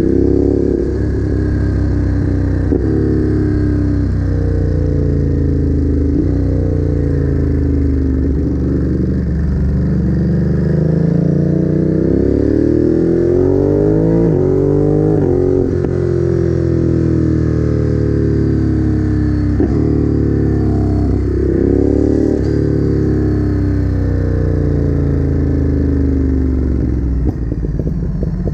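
Ducati Monster's L-twin engine running under way, its pitch climbing with the revs and dropping back several times as it accelerates and shifts through the gears. The longest, steepest climb comes about halfway through, before a sudden drop.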